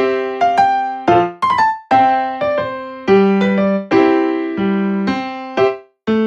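Background music: a piano-type keyboard playing separate struck notes and chords, each dying away, with a brief gap near the end.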